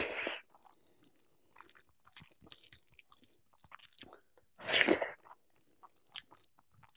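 Close-miked chewing of a mouthful of rice and curry, with many small mouth clicks and a louder burst of noise about five seconds in.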